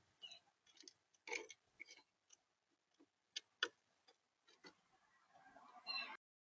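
Faint, irregular clicks and taps of birds pecking at seed on a bird feeder, heard close up through the feeder camera's microphone, with a busier patch of scratching near the end before the sound cuts off suddenly.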